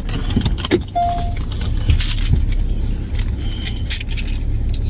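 Steady low road rumble of a moving car heard from inside the cabin, with scattered clicks and rustles of things being handled and one short beep about a second in.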